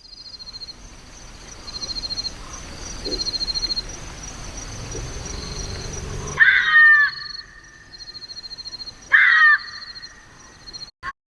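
Wild outdoor recording of insects trilling in rapid pulses over a low rumble. After a cut, a bird gives two loud, harsh calls about three seconds apart.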